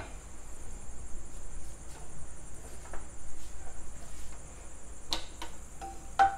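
Frying pan being handled onto a gas stove: a few light clicks and knocks, then a metal clank with a short ring near the end. A steady high-pitched trill carries on in the background.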